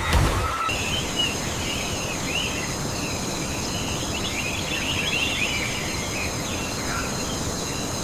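Rainforest ambience: many birds chirping irregularly over a steady, high insect drone and a constant background hiss, starting under a second in.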